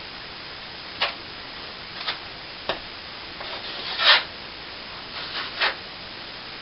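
Plastering trowel working cornice cement on a plasterboard ceiling patch: a handful of short scraping strokes over a steady hiss, the loudest about four seconds in.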